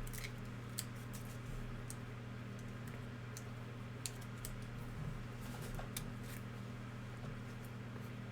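Trading cards and packs being handled: scattered light clicks and ticks as cards are flicked and slid, over a steady low electrical hum.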